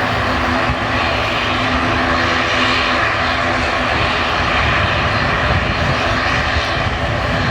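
Aircraft engines running steadily: a loud, even rush with several steady humming tones through it.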